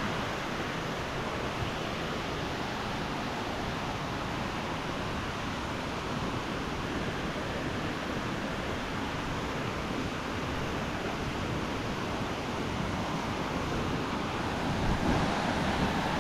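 Steady rush of falling water from Anna Ruby Falls, a little louder near the end.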